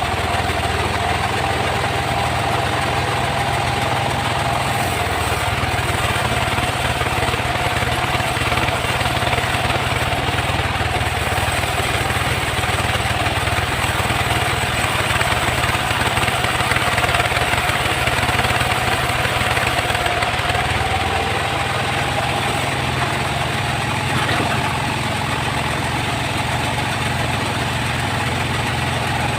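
Engine-driven sawmill saw running steadily while sawing teak wood. A steady hum and hiss, with a steady tone that wavers slightly in pitch.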